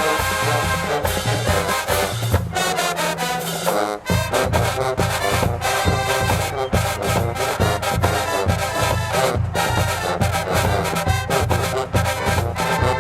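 HBCU marching band playing: brass section with trombones and trumpets over a steady pounding drumline beat. The drums drop out briefly about two and a half seconds in, and the full band crashes back in at about four seconds.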